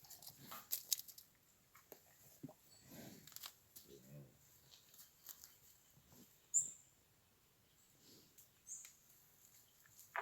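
Faint, scattered animal sounds with small clicks and knocks, and one short low pitched sound about four seconds in.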